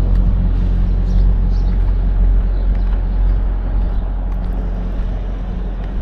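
Semi truck's diesel engine idling, a steady low rumble heard from the cab, easing slightly toward the end.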